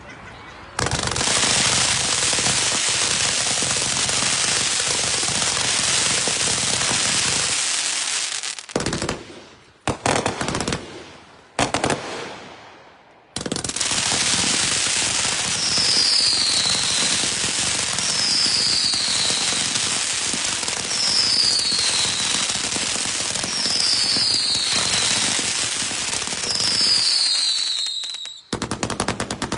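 A large 500-shot consumer fireworks cake firing a rapid, continuous barrage of shots that starts about a second in. It breaks into a few short bursts with gaps about a third of the way through, then resumes with five falling whistles in the second half, and stops shortly before the end.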